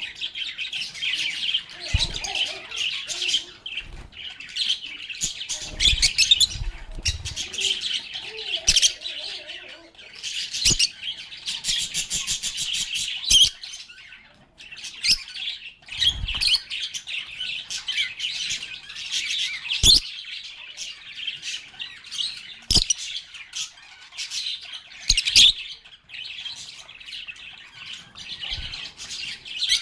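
A flock of lovebirds chattering, with a constant stream of high chirps, squeaks and short trills overlapping one another. Sharp knocks come every few seconds, the loudest about 20 s in.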